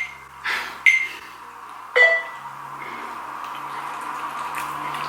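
Metal forks clinking against the noodle bowls three times in the first two seconds, each with a brief ring, then a soft continuous wet noise of noodles being slurped and eaten.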